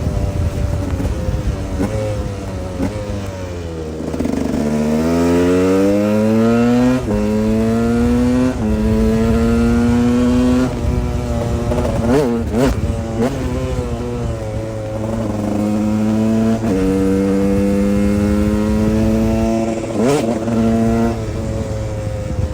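2011 KTM 125 EXC's two-stroke single-cylinder engine under way: it slows at first, then pulls up through several gears, the pitch rising and dropping back at each shift. A couple of quick throttle blips come midway and near the end, between stretches of steady running.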